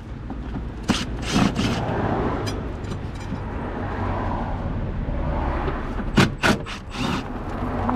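Hand work under a car: a few sharp knocks and clatters about a second in and again near the end, with a stretch of steady scraping and rustling between them.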